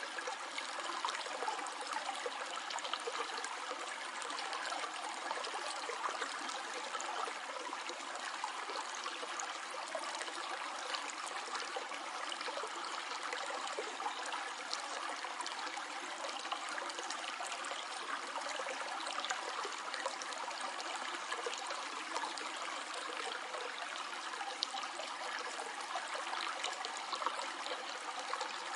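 A stream flowing and trickling with a steady, even rush of water and many small splashes.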